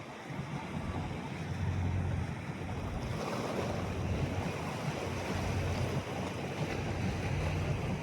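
Wind buffeting the microphone over open water, with a steady low rumble and the wash of water on the bay.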